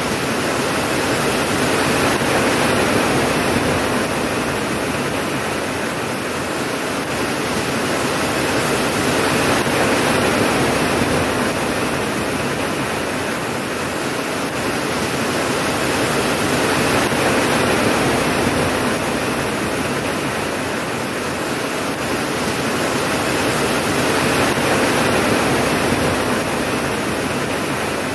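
Steady rain falling, a dense even hiss that slowly swells and eases about every seven to eight seconds.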